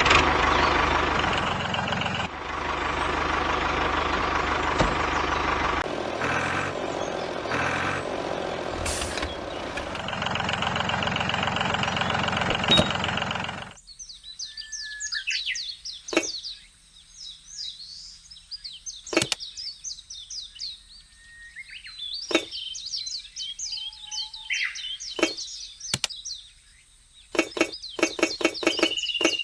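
A steady, noisy machine running for about the first half, cutting off suddenly. Then birds chirping, with a few sharp clicks, and a fast regular ticking starting near the end.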